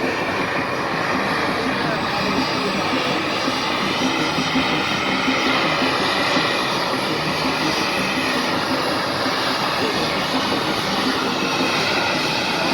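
Jet noise from an A-10C Thunderbolt II's twin General Electric TF34 turbofans in flight: a steady, loud rush with faint bands of pitch that slowly drift up and down as the aircraft moves.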